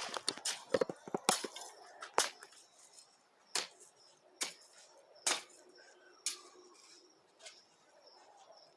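Irregular sharp knocks of a hoe chopping into the ground: a quick cluster of strikes in the first two seconds, then single strikes about a second apart.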